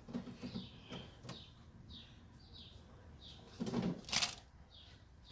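Small birds chirping, short falling calls repeated every second or so. About four seconds in comes a brief, louder burst of noise with a low thump.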